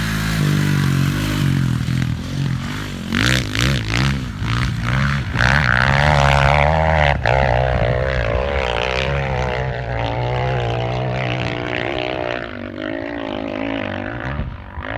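Honda CRF450 four-stroke single-cylinder dirt bike engine running under load on a steep trail section, the revs rising and falling, with a few sharp knocks a few seconds in.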